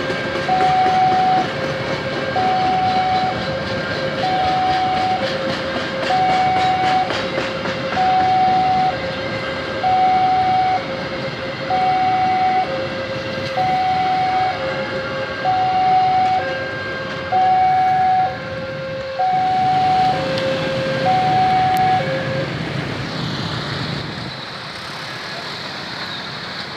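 Level-crossing warning alarm sounding an alternating two-note signal over the noise of a passing passenger train, its wheels clacking over the rail joints. The alarm stops about 22 seconds in, and the train noise dies away soon after.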